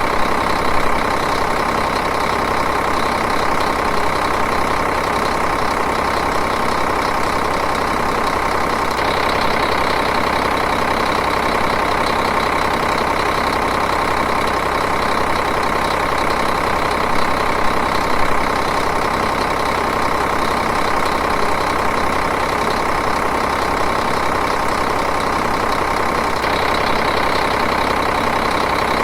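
Diesel engine idling steadily, with an even clatter.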